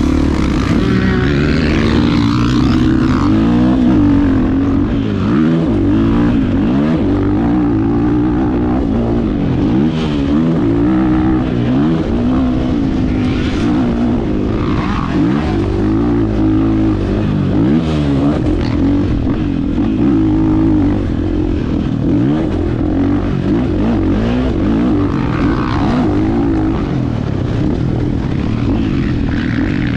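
Husqvarna FE 501's single-cylinder four-stroke engine revving up and down over and over, the pitch rising and falling as the throttle is opened and closed.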